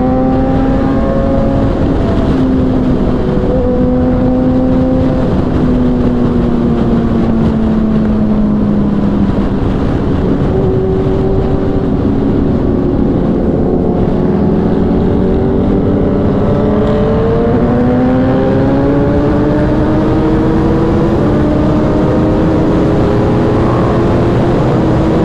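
Kawasaki inline-four superbike engine running at highway speed, with heavy wind rush. The engine note sags over the first several seconds, then climbs again in a few steps.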